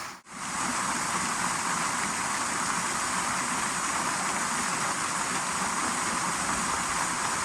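Steady rushing of a small waterfall, an even roar of falling water that starts at a cut and holds without change.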